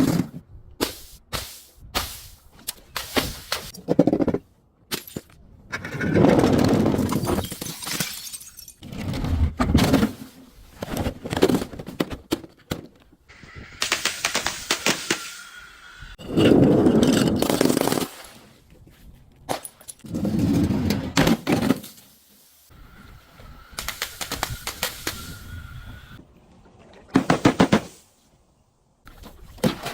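Glass bottles and other crunchy objects being crushed and broken, one after another: repeated sharp cracks, crunching and breaking glass, with several longer heavy crunches.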